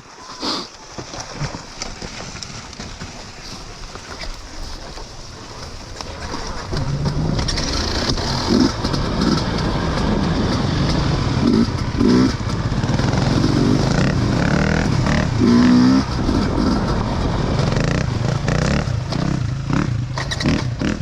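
Motorbike being ridden along a trail: a steady running and riding noise that grows louder about six seconds in, with a few short swells in pitch.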